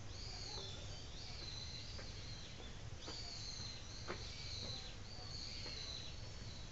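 A bird calling repeatedly outdoors: a run of high calls, each sliding down in pitch, over a steady low hum, with a sharp tap about four seconds in.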